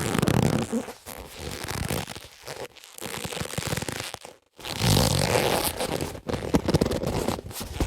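Boxing gloves being handled and rubbed, a dense scraping, rustling friction with rapid small clicks. There are two takes, split by a brief silent break about four and a half seconds in.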